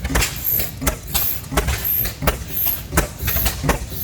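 Slow-running Bessemer oil field engine, its exhaust giving a steady beat of sharp pops, about two a second, over a low rumble.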